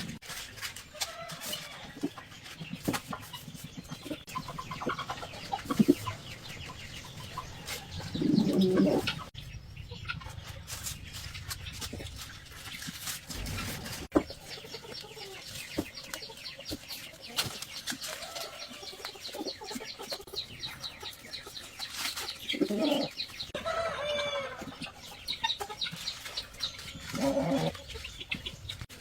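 Chickens clucking, with a few louder calls, among scattered clicks and knocks.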